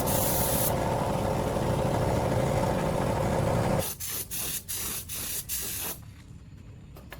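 Compressed-air spraying: a steady hiss that stops at about four seconds, followed by about five short on-off bursts before it cuts off.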